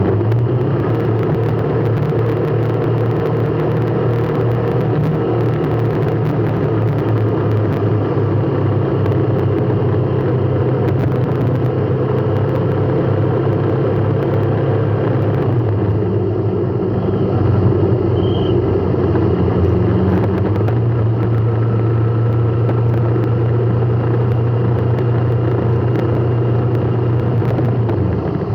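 Steady drone of a car in traffic: a low, even engine and road hum whose pitch steps slightly a couple of times.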